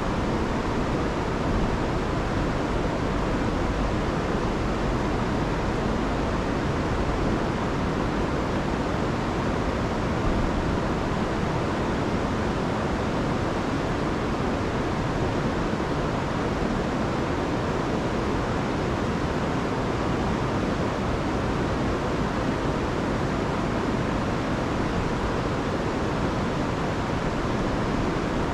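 Rain-swollen river and waterfalls running, a steady, even rush of water with no breaks, its weight in the low and middle range. The river is running high after a week of rain.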